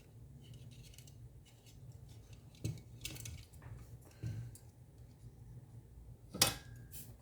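Small wire cutters clicking and snipping at a short piece of hookup wire, a few light clicks and one sharper, louder snip about six and a half seconds in.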